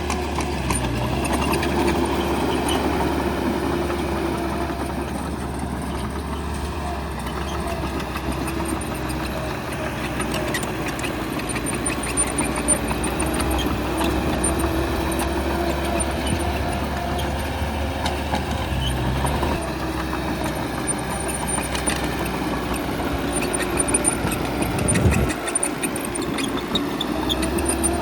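Heavy diesel engine of a bulldozer or similar earthmover running steadily, its pitch shifting a little under load, with a few short knocks.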